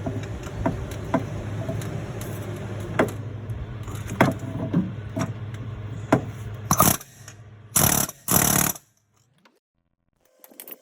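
Metal tools tapping and clanking on a van's engine fan clutch as it is being removed, over a steady low hum. About seven seconds in come three short, loud rushing bursts, then the sound cuts out.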